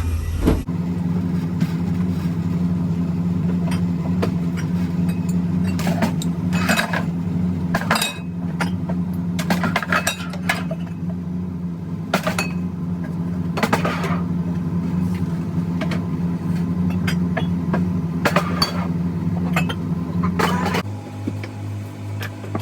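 Steady mechanical hum of equipment running inside a coffee truck, with scattered sharp clinks and knocks of bottles, pitchers and utensils being set out. Near the end the hum shifts to a lower, pulsing tone.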